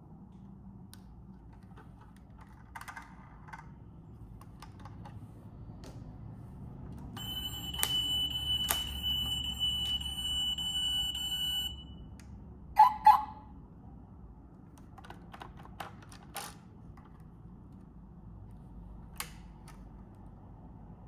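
Small scattered clicks and snaps of a diecast model car's opening parts being worked by hand, with two louder sharp clicks about thirteen seconds in. In the middle, a steady high tone sounds for about four seconds.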